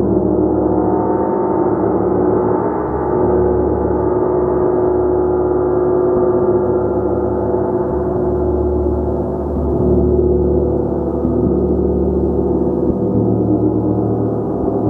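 Gong sounding continuously, a dense wash of many overlapping sustained tones with a low hum that swells and pulses as it is kept going by repeated soft playing.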